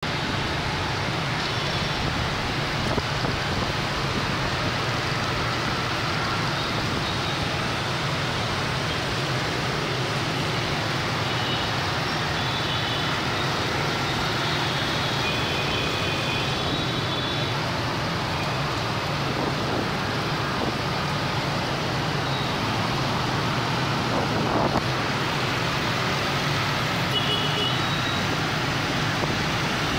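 Dense motorbike traffic, with many small engines running steadily under a constant rush of road noise. Short high horn beeps sound now and then, in a cluster in the middle and again near the end.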